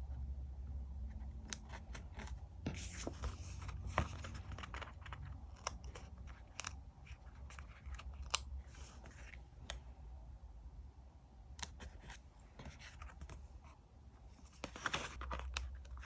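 Scissors cutting paper, with irregular small snips and clicks and short rustling swishes of paper.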